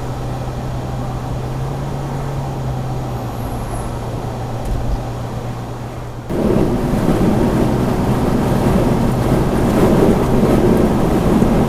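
Car driving on icy road: a steady low engine hum with road noise, then about six seconds in a sudden jump to louder, rougher rumbling noise.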